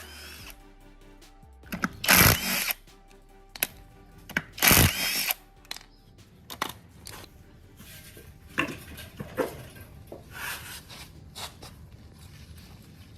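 A power tool run in two short bursts, about two and five seconds in, followed by lighter scattered workshop knocks and brief tool sounds, over quiet background music.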